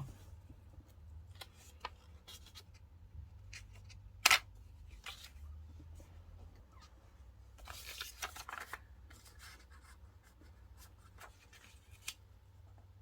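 Desk sounds of diary decorating: scattered light taps and clicks of stationery being handled, a sharper click about four seconds in, and a short stretch of paper or sticker rustling around eight seconds, over a low steady hum.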